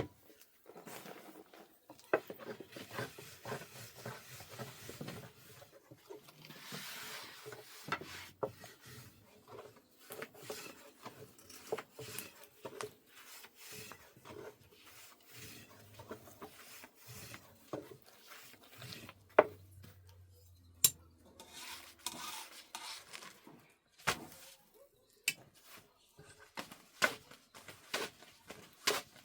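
Irregular rubbing and scraping with scattered sharp taps and knocks, as from hand work with wooden and metal utensils.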